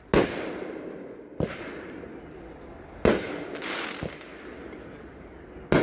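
Top Gun 'Space Combat' 16-shot fireworks cake firing: five sharp bangs, alternating loud and quieter, each trailing off in a crackling hiss.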